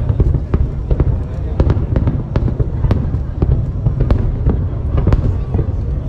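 Aerial fireworks display: many sharp bangs and cracks, several a second, over a continuous deep rumble.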